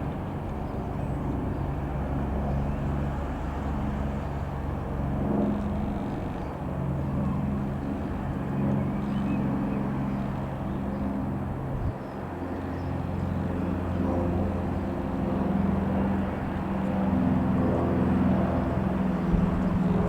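Single piston engine of a Rockwell Commander 114 light aircraft running with a steady low drone, its engine note shifting slightly in pitch, growing a little louder near the end.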